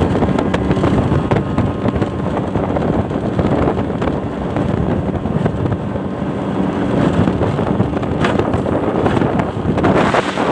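Speedboat with a 40 hp outboard motor running at speed: a steady engine drone under heavy wind buffeting on the microphone.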